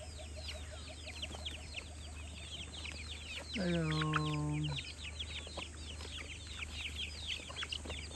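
A flock of chickens peeping and clucking, with many rapid high chirps running on without a break. A man's voice calls out a drawn-out "Hello" near the middle.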